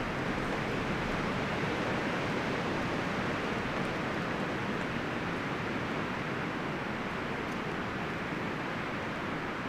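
Wind blowing steadily through forest trees, a constant rushing rustle of leaves and branches.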